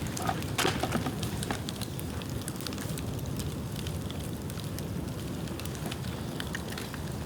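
Dead bamboo burning in an open bonfire: a steady low rush of flame under many sharp crackles and pops, most of them bunched together about half a second to a second in.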